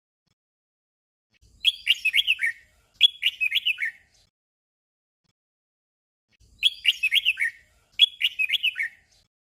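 Red-whiskered bulbul song: a short phrase of quick warbled, up-and-down whistled notes, given twice in quick succession. The same pair comes again about five seconds later.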